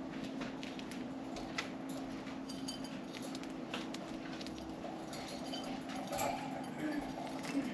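Budgies pecking at millet, a scatter of small irregular taps and clicks, with a few short soft chirps. A steady low hum runs underneath.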